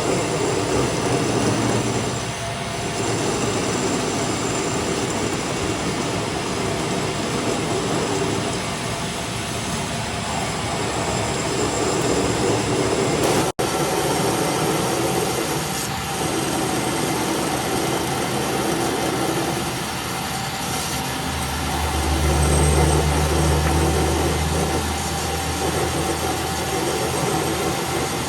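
Workshop machinery running steadily with a dense metallic noise, broken by a sudden cut about halfway through; a low hum joins for a few seconds later on.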